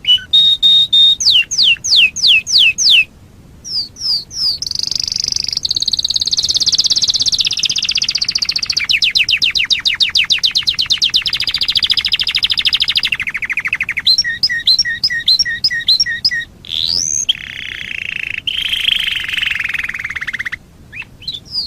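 Domestic canary singing a long, varied song: quick rising sweeps, then long fast trills and repeated two-note phrases, each section running straight into the next with only brief pauses.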